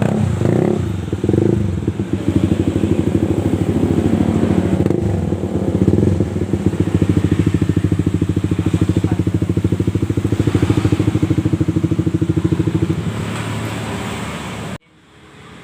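Honda CB150R single-cylinder engine running through an aftermarket SKR racing exhaust, with a brief rise and fall in revs near the start and then a steady, evenly pulsing idle. It cuts off suddenly near the end.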